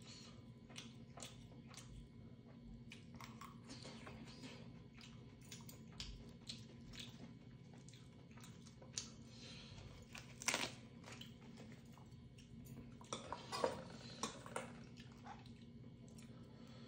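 Close-up chewing and biting of food, with scattered short clicks and taps of metal chopsticks. The clicks come in denser groups about ten seconds in and again about thirteen to fifteen seconds in.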